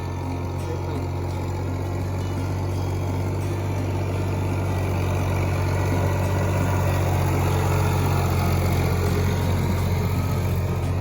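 Tractor engine running with a steady low hum that grows gradually louder over the seconds.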